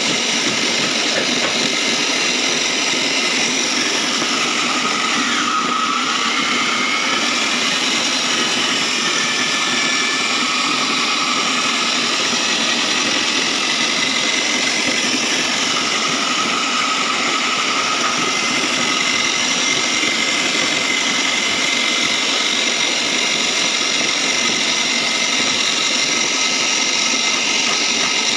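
Foam shredding machine running steadily, a continuous mechanical whine and rush with faint high whining tones; its pitch dips briefly and rises again about six seconds in.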